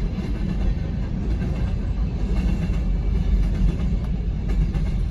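Empty BNSF coal train's hopper cars rolling past fast, a steady rumble of steel wheels on the rails with a few faint clicks near the end.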